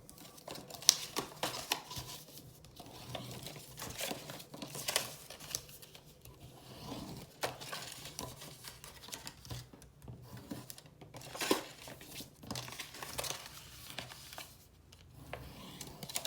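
Stiff cardstock being folded along its score lines and creased with a bone folder: irregular crinkles, scrapes and taps of card, the sharpest about a second in.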